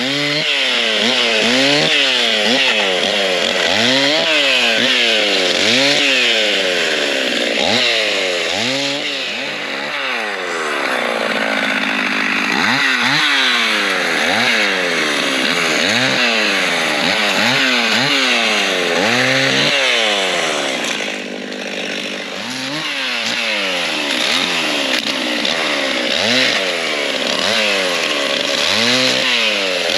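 Husqvarna 51 two-stroke chainsaw running, its pitch climbing and falling again and again, about once a second, as the throttle is opened and let off. There is a short steadier stretch near the middle and a brief dip about two-thirds of the way through.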